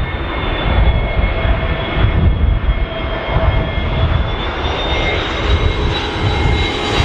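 Jet airliner's engines running with a steady high whine over a deep rumble, the whine dipping slightly in pitch and rising again. Strong wind buffets the microphone throughout.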